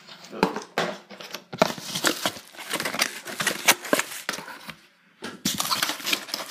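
Packaging crinkling and rustling as the contents of a blow dryer box are unpacked and handled. The sound is irregular, with sharp crackles and clicks and a brief pause a little before 5 seconds in.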